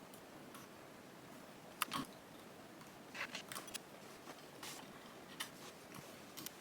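Scattered small clicks and crackles, loudest about two seconds in and again in a cluster a little after three seconds, over faint room noise.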